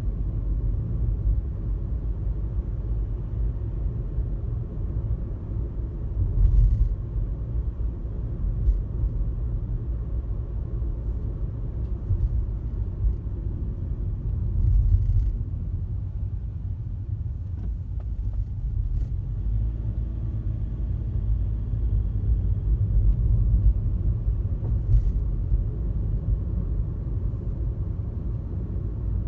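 Car driving on a highway: steady, low road and engine rumble, with a few brief thumps along the way.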